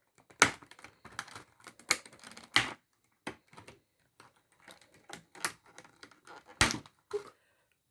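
Irregular clicks and taps of small plastic pieces being handled and set down, as a ball-jointed doll's extra parts and accessories are unpacked; the loudest click comes near the end.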